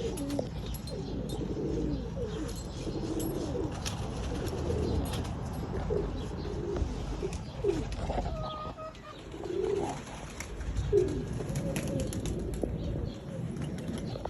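Tippler pigeons cooing, several low warbling coos overlapping one after another, with occasional clicks and wing flaps.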